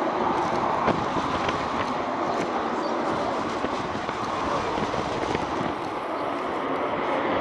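Steady roar of military aircraft engines at a distance, with an uneven rumble from the strong wind.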